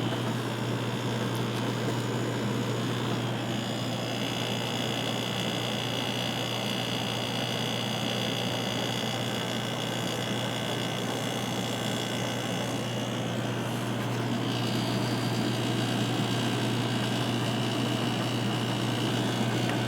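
Room air conditioner running with its compressor on and fan blowing, a steady hum with a faint high whine that comes in a few seconds in, drops out briefly and returns. The compressor has been running long enough to quiet down and is putting out cold air, and a space heater runs alongside it.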